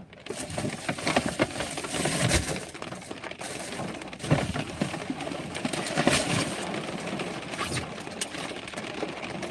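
Irregular rustling and clicking of objects being handled, with a few sharper clacks about two, four and six seconds in.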